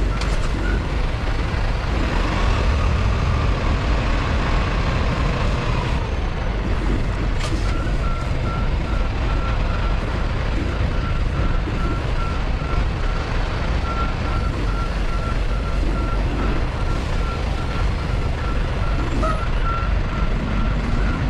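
A truck's backup alarm beeping at one pitch, about two beeps a second, over the steady rumble of a diesel truck engine. The beeping stops for several seconds after the first second, then resumes.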